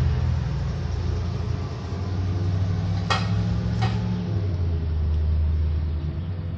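Motor vehicle engine running with a steady low rumble that shifts slightly in pitch a couple of times. Two short sharp clicks about three and four seconds in.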